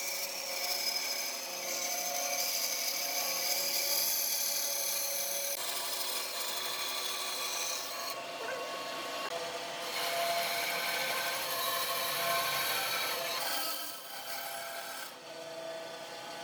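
Wood being turned on a lathe: a cutting tool scraping against the spinning wood in a steady hiss with several held tones running through it, the sound shifting abruptly a few times.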